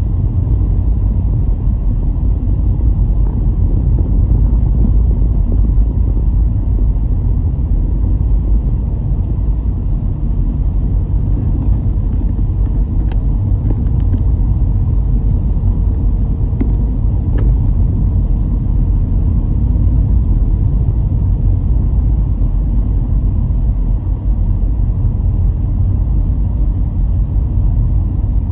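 A car driving steadily: a constant low rumble of engine and tyres on the road, with a faint steady hum joining in for a while midway and a few light ticks.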